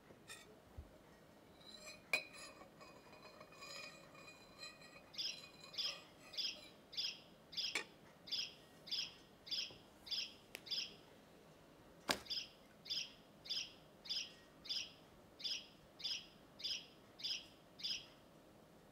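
Bird chirping in an even, repeated series, about two short, high, falling calls a second, which starts about five seconds in and runs on. A few sharp knocks come through, the loudest about two and twelve seconds in.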